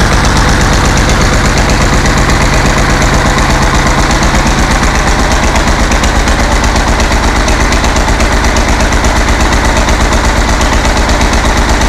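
Eicher Wotan's six-cylinder air-cooled diesel engine idling steadily with an even, rapid pulse, freshly rebuilt and running after fifteen years out of use.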